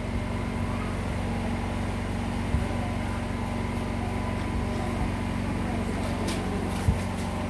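A steady low mechanical hum, with a few short knocks about two and a half seconds in and near the end.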